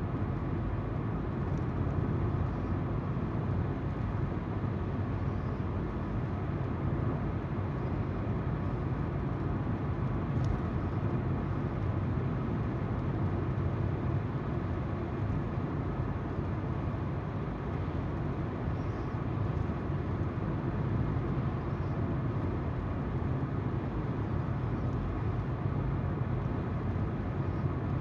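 Car driving at steady speed: tyres rumbling on the road with the engine humming underneath, as heard from inside the car.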